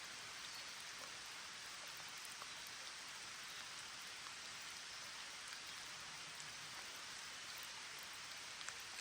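Steady rain falling, with scattered single drops ticking now and then.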